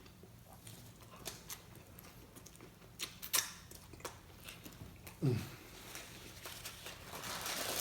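A person chewing taco with a mouthful, making scattered soft clicks and crunches, with a short low voice sound about five seconds in. A hissing noise swells near the end.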